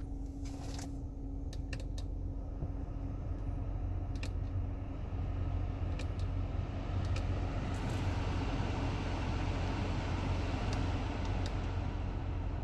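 Replacement HVAC blower fan in a 2015 Toyota Highlander running, with a few clicks near the start and its air rush rising a few seconds in as it speeds up, over a steady low hum. The new blower motor runs without the noise the old one made.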